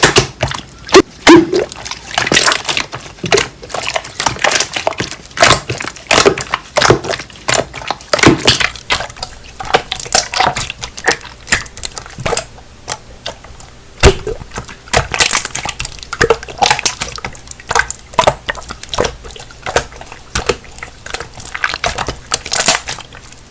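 Slime being squished and pressed by hand, giving a fast, irregular run of wet clicks, pops and squelches.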